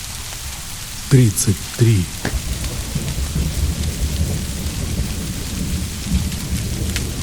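Steady rain, with a low, distant thunder rumble rolling in from about two and a half seconds in.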